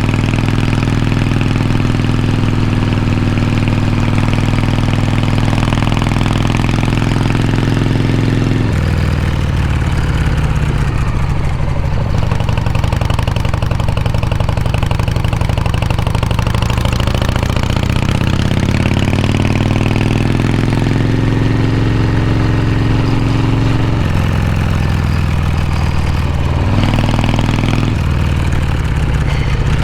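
Harley-Davidson Shovelhead V-twin engine running loudly on a 1979 FXEF. Its pitch changes several times: suddenly about nine seconds in, then rising slowly through the middle, then shifting again near the end.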